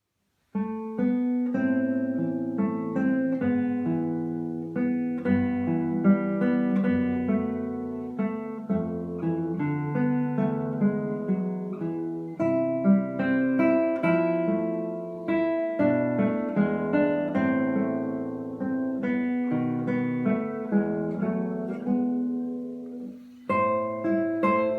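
Solo acoustic guitar playing a plucked melody with bass notes, note after note. There is a short break about 23 seconds in, then the playing starts again.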